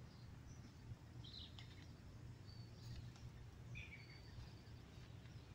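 Near silence outdoors, with a few faint, short bird chirps scattered through it over a low steady hum.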